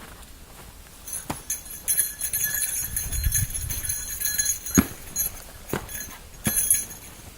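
Irregular crunching steps on hard, very cold snow, with a squeaky, jingly high edge and a few sharp clicks. They start about a second in and die down near the end.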